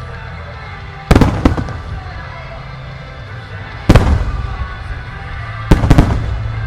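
Aerial firework shells bursting with loud bangs over a music soundtrack: a quick cluster of cracks about a second in, a single big boom near the middle, and two booms in quick succession near the end, each trailing off in echo.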